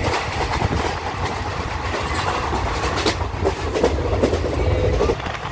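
Passenger train coach running along the track, heard from inside: a steady rumble of wheels on rail with irregular clacks and rattles from the carriage.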